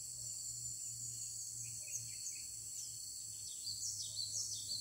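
Cinereous tit (gelatik batu) giving quick, short falling chirps, more often in the second half, over a steady high drone of insects.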